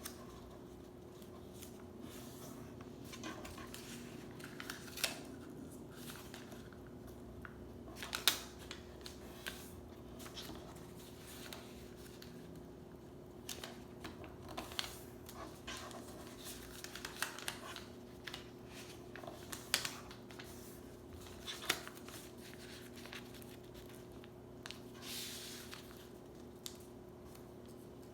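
Sheet of paper being handled and folded: scattered short crinkles, taps and creasing rustles, with one longer rustle near the end, over a steady low hum.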